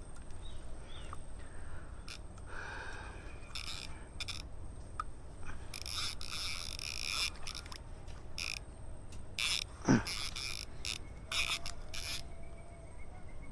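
Scattered light clicks and scrapes of handled gear, then one sharp snap about ten seconds in: the shot of a slingshot rifle's rubber bands at a fish.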